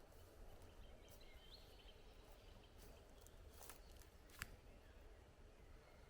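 Near silence: faint outdoor ambience with a low rumble and a few scattered faint clicks or snaps, the sharpest about four and a half seconds in.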